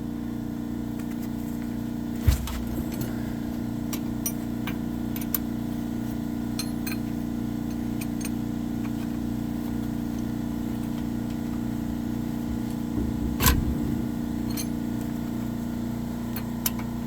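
Air compressor running steadily, with a few metallic clinks and knocks from hand tools working on the drive shaft bolts, the sharpest about two seconds in and another near the end.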